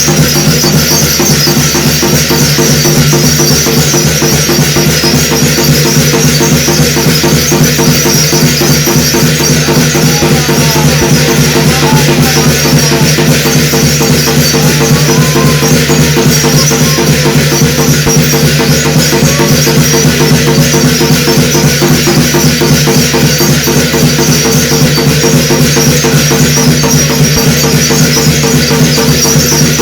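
Korean shamanic gut ritual music: fast, steady drumming with a constant high metallic shimmer and held low pitched tones, without a break.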